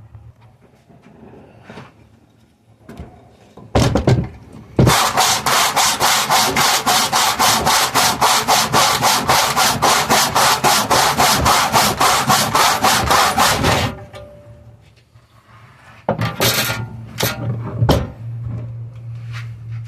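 Hand saw cutting Riga pine in quick, even back-and-forth strokes, about four or five a second, for around nine seconds. There are a couple of knocks of wood being handled before the sawing and again a few seconds after it stops.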